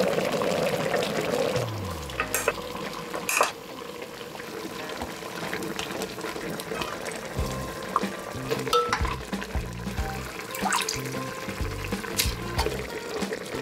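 Food sizzling as it fries in a pan, with a utensil stirring and clicking against the pan. Background music with a bass line comes in about halfway.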